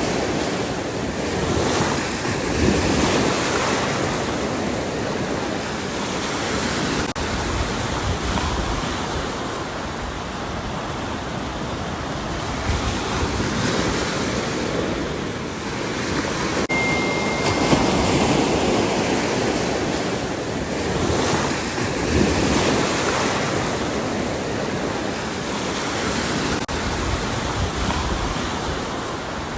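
Ocean waves breaking and washing onto the shore: a steady rush that swells every four or five seconds as each wave comes in.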